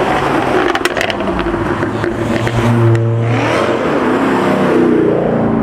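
Performance car engine revving hard as it pulls away, its pitch gliding up and then down, with a few short sharp cracks about a second in.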